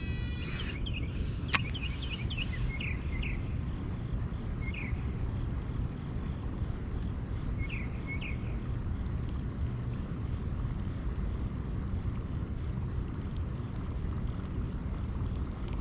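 Steady low outdoor rumble with several short, high bird chirps in the first half, and a single sharp click about a second and a half in.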